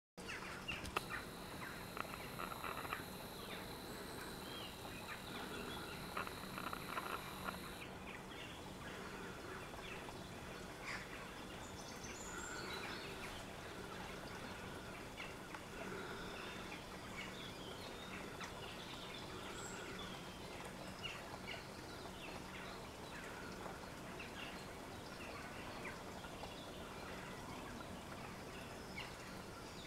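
Faint outdoor ambience with scattered bird calls and chirps. A few sharp knocks come in the first several seconds.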